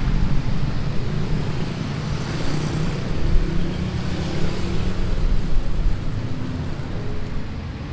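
Road traffic passing: a steady, loud rumble of vehicles that eases a little near the end.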